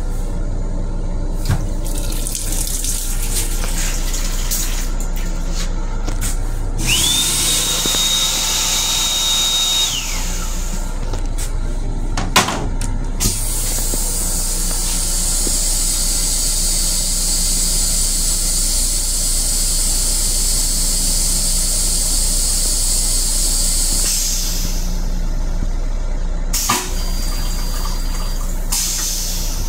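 Commuter-train restroom toilet and water running over the steady hum of the M7 railcar: a whine rises and holds for about three seconds, then about ten seconds of rushing water, with a shorter rush near the end.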